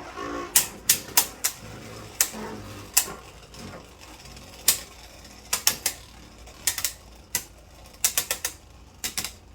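Irregular sharp clicks and clacks of hard plastic Beyblade tops and parts, some single and some in quick clusters of three or four.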